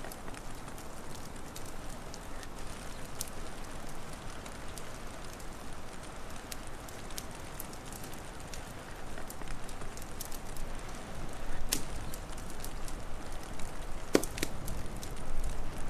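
Wood fire crackling, with scattered sharp pops over a steady hiss; a louder pop about two seconds before the end.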